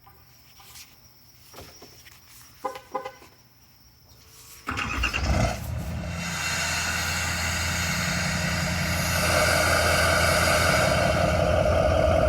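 Chevy 6.6-litre Duramax V8 turbodiesel starting up about five seconds in, after a few faint clicks, then running steadily, louder from about nine seconds on.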